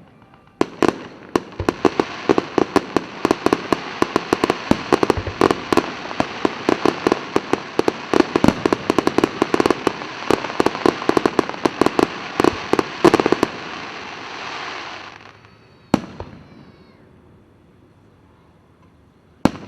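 Fireworks finale barrage: a dense, rapid run of bangs over a steady rush of noise, building for about fifteen seconds and then fading out. Two single, separate bangs follow near the end.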